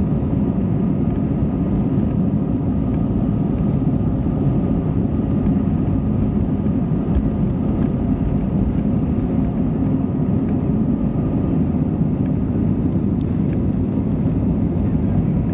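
Airbus A320neo jet engines and airflow heard inside the passenger cabin: a steady, loud low rumble with a faint steady whine above it.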